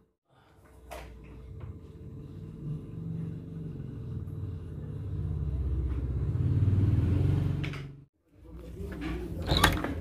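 Low rumble of an electric stand fan blowing air at the microphone, growing louder over several seconds and then stopping. Near the end come a few sharp clicks of a key in a door lock.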